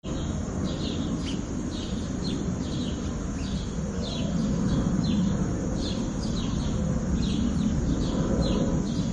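A bird calling: short, high, falling chirps, about two or three a second and often in pairs, over a steady low rumble of background noise.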